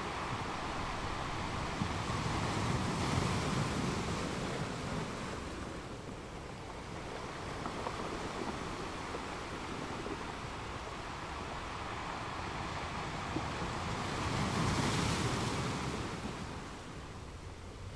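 Waves washing and splashing, with wind buffeting the microphone; the wash swells louder twice for a couple of seconds.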